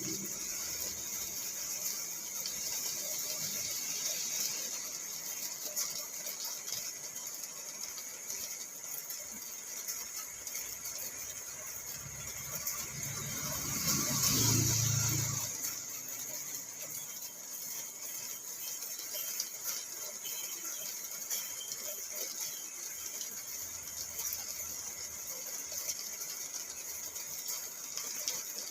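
Rain falling on a car, heard from inside the cabin as a steady hiss with fine drop ticks. About halfway through, a low rumble rises and fades over a few seconds.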